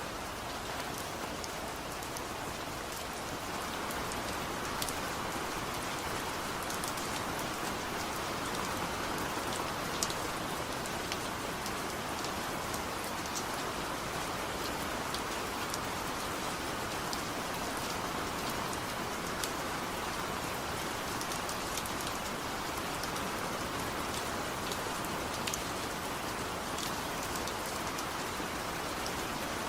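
Steady rain falling, an even hiss with scattered individual drops ticking on a surface, no thunder. It gets a little heavier about three to four seconds in.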